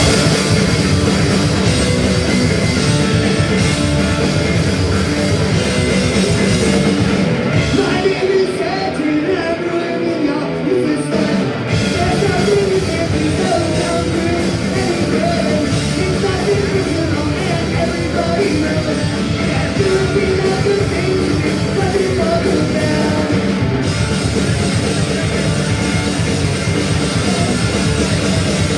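Punk rock band playing live at full volume, with drums, guitars and sung vocals. The sound thins out in the upper range for a few seconds about eight seconds in, then returns to full strength.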